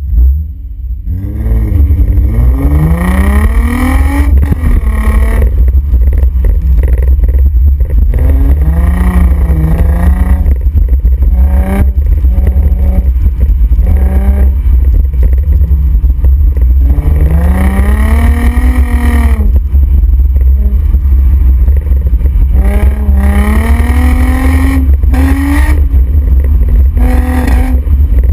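2005 Infiniti G35's 3.5-litre V6 through its exhaust under hard autocross driving. The revs climb steeply and drop away several times as the driver accelerates, lifts and shifts, over a constant deep rumble.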